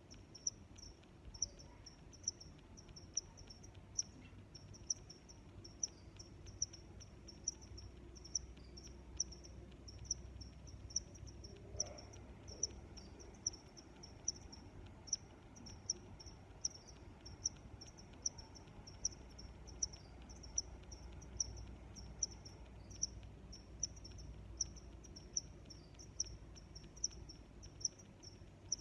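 Crickets chirping: a continuous series of short, high-pitched chirps, with a louder chirp repeating a little more than once a second, over a faint low rumble.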